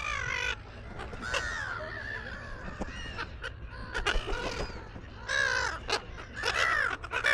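A flock of gulls (brown-headed gulls) calling: many harsh, overlapping cries come in bursts, loudest in the second half.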